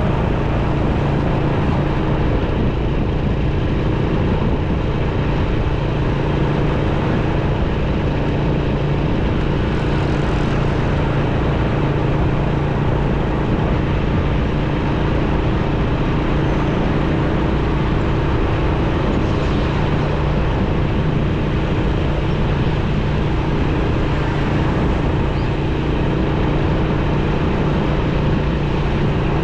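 Motorcycle engine running at a steady cruising speed, with wind and road noise and surrounding city traffic.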